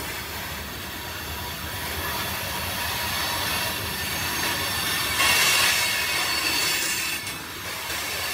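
Freight train cars rolling past on the rails with steel wheels squealing. The squeal gets louder and harsher for about a second, roughly five seconds in.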